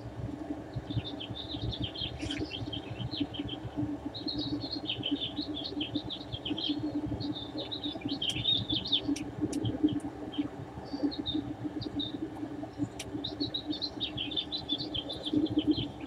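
Birds chirping in quick, chattering bursts, over a steady low hum.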